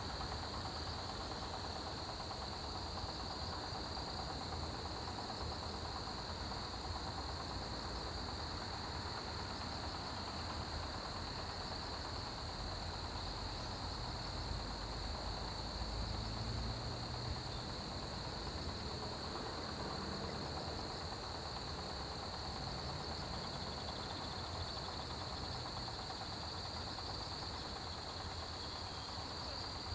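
Chorus of autumn grass insects such as crickets: one steady high trill, and above it a higher chirping that pulses several times a second, without a break. A faint low rumble sits underneath, swelling briefly about halfway through.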